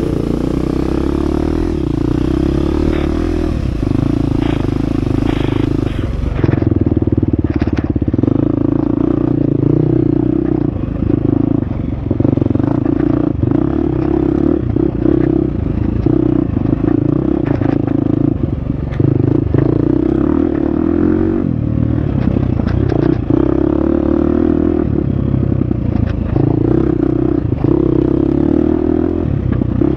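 Husqvarna FX 350 four-stroke single-cylinder dirt bike engine running on and off the throttle, with frequent short clattering knocks from the bike over rough trail.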